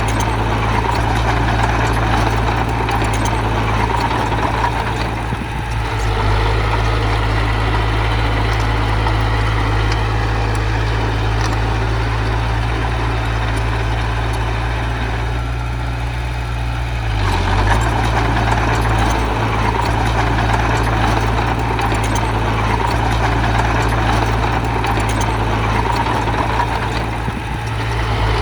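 Diesel engine of heavy earthmoving machinery running steadily with a deep drone. The engine note eases off briefly about five seconds in and again around fifteen to seventeen seconds in, then picks back up.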